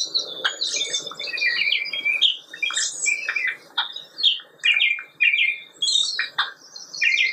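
Songbirds singing: a nearly unbroken run of quick, high chirps and warbled phrases, rising and falling in pitch.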